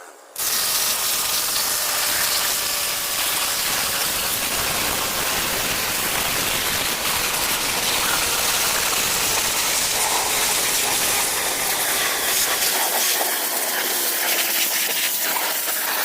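Electric pressure washer running with its trigger held, a steady hiss of the water spray over the pump motor's hum. It starts suddenly about half a second in, and the motor's faint tone sinks slowly in pitch.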